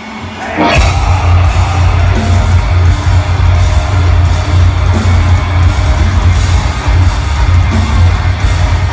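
Live metalcore band playing loud: heavy distorted guitars, bass and drums. After a brief drop at the start, a sweep rises in pitch and the full band comes back in.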